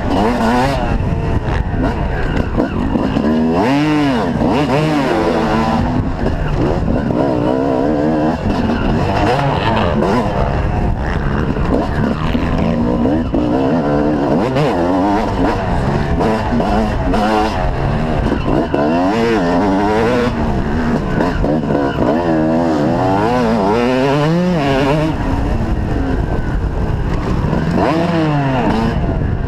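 Motocross bike engines revving hard and shifting, their pitch climbing and dropping over and over, with more than one bike running at once.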